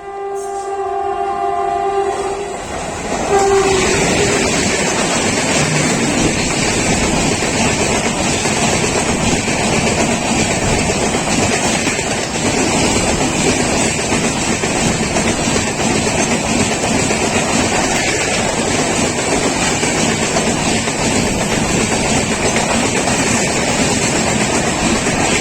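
Horn of a WAG-9 electric locomotive sounding, cutting off about two seconds in, with one short toot a second later. Then the loud, steady rumble and wheel clatter of a BCNA freight train passing close by.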